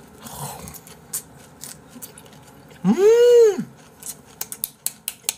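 Close-miked chewing of a leaf-wrapped bite of raw fish, with one loud hummed 'mmm' of enjoyment about three seconds in whose pitch rises and then falls. After the hum comes a run of quick, sharp, wet chewing clicks, several a second.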